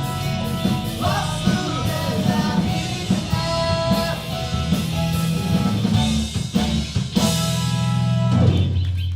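Live rock band with electric guitars, bass, drums and keyboard playing the instrumental close of a song, ending about 8.5 s in on a final chord with a low bass note left ringing.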